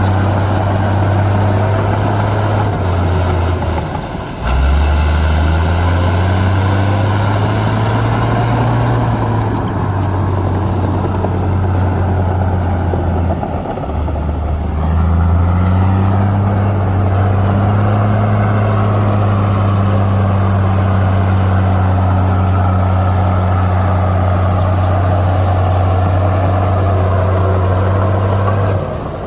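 Heavy diesel engine of earthmoving machinery running under load, with a steady low drone. The engine dips briefly twice, about 4 and 14 seconds in, and each time revs back up with a rising pitch.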